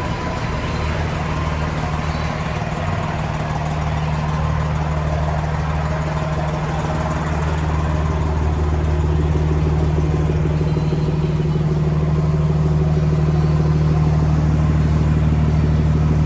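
A semi truck's diesel engine idling: a steady low hum that grows gradually louder.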